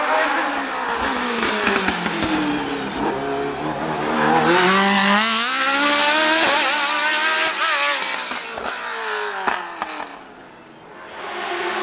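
Race car engine accelerating hard past the microphone, the revs climbing and dropping again and again through gear changes. It is loudest about halfway through, fades out near the end, then an engine note rises again at the very end.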